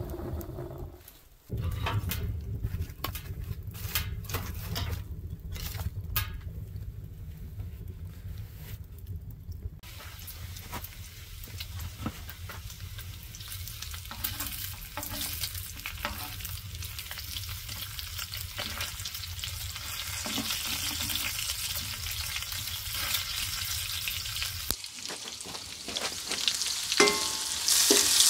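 Bacon sizzling in a skillet and being turned with a wooden spatula, with small scrapes. Near the end, sliced red-skin potatoes fry louder in the bacon fat. It opens with a low steady rumble and scattered clicks.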